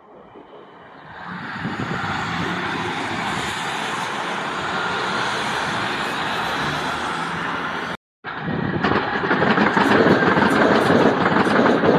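Passenger train running past on the tracks: steady rolling noise from the wheels and engine builds up after about a second. The sound drops out briefly about eight seconds in and comes back louder, with a rapid clatter.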